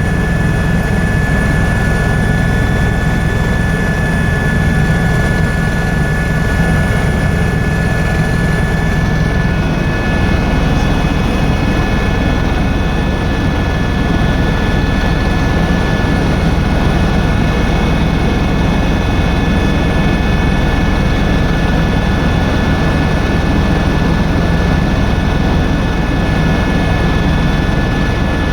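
Helicopter engine and rotor noise running steadily: a loud, even rumble with a steady high whine over it.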